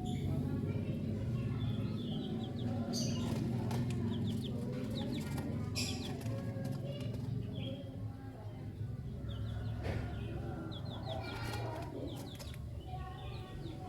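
Lovebirds chirping in many short, quick calls, with a few brief wing flutters and a steady low hum underneath.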